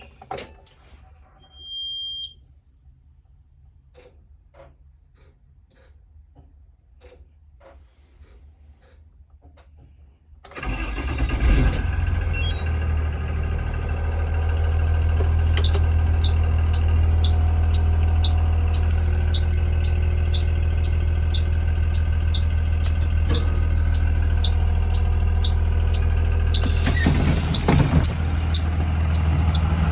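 The 2022 Blue Bird Vision school bus is started: a short warning beep at key-on about two seconds in and faint ticking, then about ten seconds in the engine cranks and catches, settling into a steady idle. A regular clicking, about two a second, runs over the idle for much of the second half.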